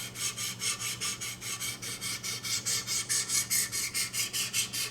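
400-grit diamond sharpening stone stroked rapidly and gently up and down along a VG-10 knife edge, a steady rhythmic scraping of about five strokes a second.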